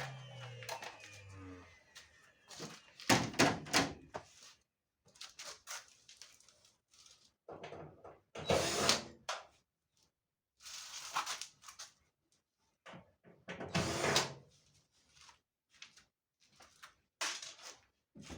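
A motor winding down, its hum falling in pitch and dying out in the first second and a half, then scattered knocks, clunks and rattles of metal and plastic tumble dryer parts and tools being handled, with short quiet gaps between.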